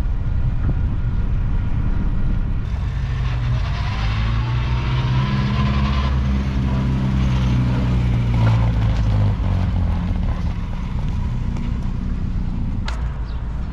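Small open-top car on the move: a steady low engine and road rumble, with the engine note rising and growing louder from about three to nine seconds in.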